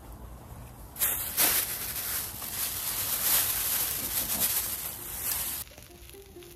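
Food sizzling in a hot pan: a loud hiss that starts suddenly about a second in and cuts off abruptly near the end.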